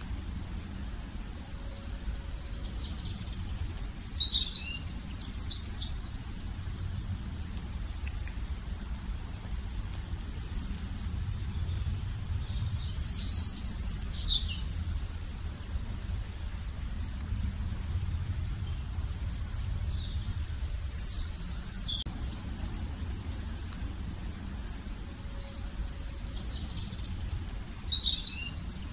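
Songbirds chirping and calling in short clusters of high, quick notes every several seconds, over a steady low background rumble.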